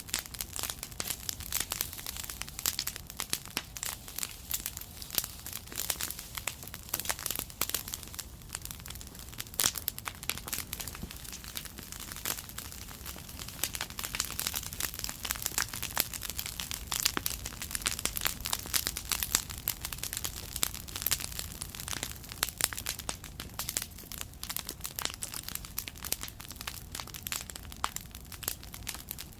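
Bonfire of dried chili pepper stalks crackling, a dense run of sharp snaps and pops throughout.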